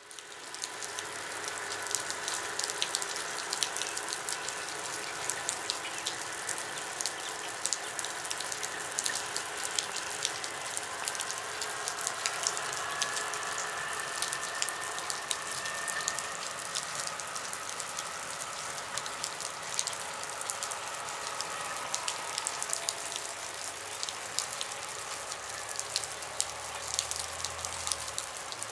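Steady rain pattering, a dense run of drop ticks, over the faint low running of diesel multiple units, a class 854 unit and a Regionova, pulling out of the station. A faint high drawn-out tone rises and fades about halfway through.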